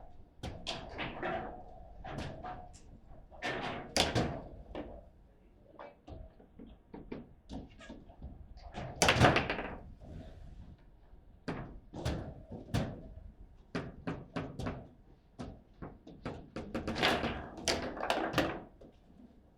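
Table football (foosball) play: a rapid, irregular run of hard clacks and thuds from the ball and rods during a rally. The loudest hits come about 4 and 9 seconds in, with a flurry of knocks near the end.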